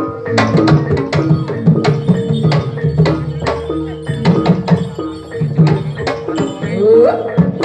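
Javanese jaranan gamelan music playing: hand-drum (kendang) strokes over ringing metallophone tones, with a short rising note near the end.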